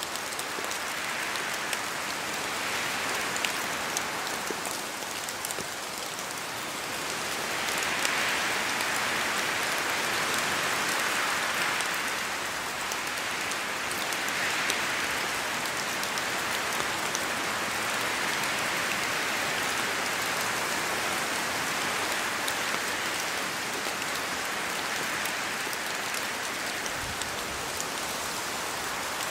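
Steady rain falling in a forest, an even hiss that swells and eases every few seconds as gusts of wind shake the trees, with scattered individual drops pattering down from the branches.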